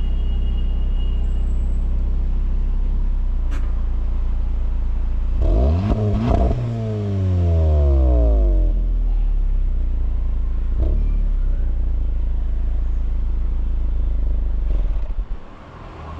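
Volkswagen Polo GTI's 1.8 TSI turbocharged four-cylinder idling through its exhaust, blipped once about five seconds in, with the revs falling back to idle over about three seconds. Near the end the engine is switched off and the sound cuts away.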